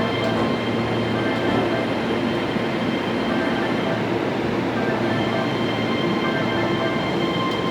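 Keihan 3000 series electric train at the station, a steady rolling-stock noise with several high steady whining tones from its electrical equipment.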